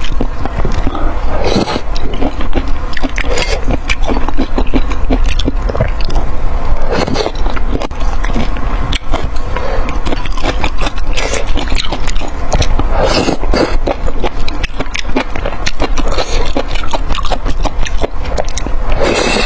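Close-miked eating sounds: a dense run of wet clicks and scrapes from food and utensils, with louder rustling bursts every few seconds.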